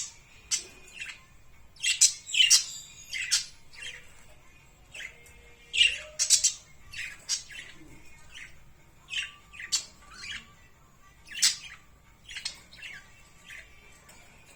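Birds chirping: a string of short, sharp, high calls at irregular intervals, some coming in quick clusters.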